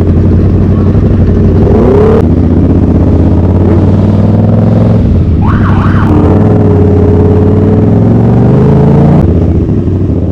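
Loud vehicle engine running at high, steady revs, its pitch climbing slowly and easing off about nine seconds in. About halfway through there is a brief whooping tone that rises and falls.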